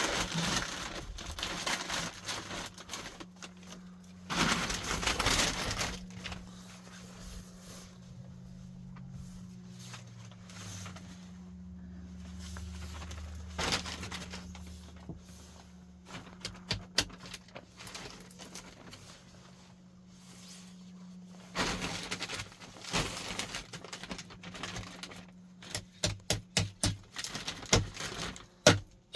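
Rustling and knocking as wood and plastic sheeting are handled during building work, with a quickening run of sharp knocks near the end.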